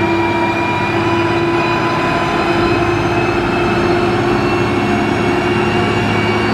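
Motor grader's diesel engine running steadily, a constant heavy drone with a faint whine over it.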